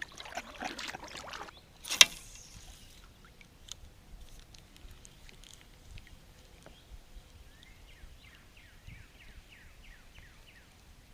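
Handling noises on a kayak: rustling and small clicks, then one sharp knock about two seconds in. Quieter ticks follow. Near the end there is a quick run of about ten short falling chirps.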